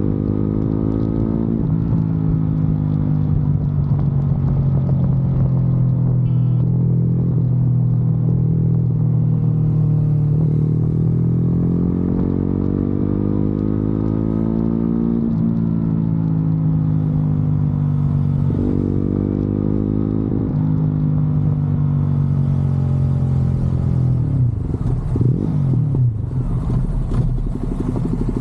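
Motorcycle engine running under way, its note climbing as it pulls through the gears and dropping suddenly at each shift. Near the end the note turns rough and uneven as the bike slows.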